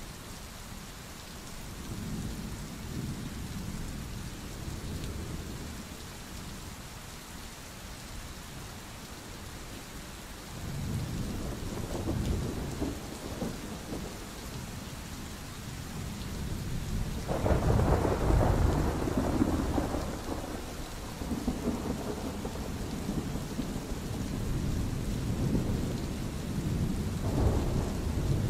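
Steady rain with rolling thunder: several deep rumbles swell and fade, the loudest about two-thirds of the way through.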